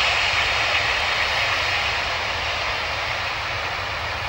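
Boeing 757-200's Rolls-Royce turbofan engines at takeoff power: a steady rushing jet noise that slowly grows fainter.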